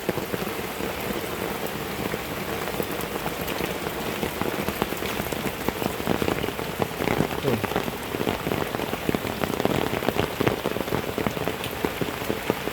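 Heavy rain pouring down, a dense steady patter studded with many sharper individual drop strikes.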